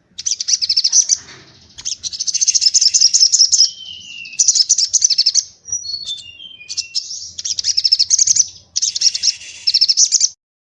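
Songbird singing rapid, high, machine-gun-like trills ('tembakan'): bursts of about a second each, repeated with short gaps, with a descending run of clear whistled notes in the middle. The song cuts off suddenly near the end.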